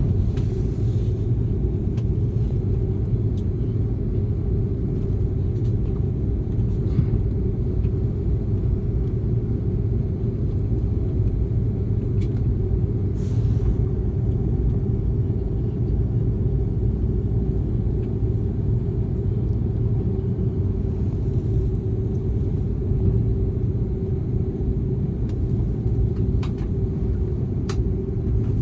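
Passenger airliner's steady low engine rumble, holding an even level without building up, with a few faint clicks here and there.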